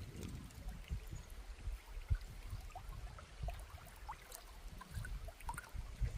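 Running river water gurgling and trickling, with a steady low rumble and a few soft low knocks underneath.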